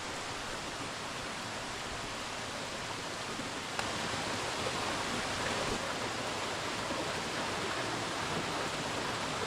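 Steady rush of flowing water at a trout hatchery, a little louder from about four seconds in.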